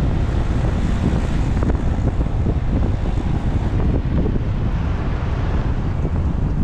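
Wind buffeting the microphone of a moving motorbike, a steady low rumble over the bike's engine and road noise.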